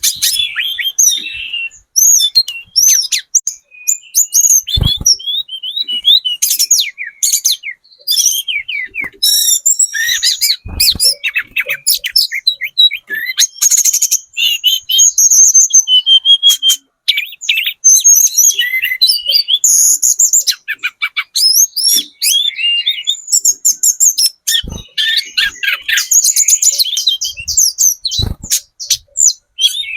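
Tledekan gunung (hill blue flycatcher) singing a fast, varied song of high whistled trills and twittering phrases, almost without pause, with a few brief low thumps in between.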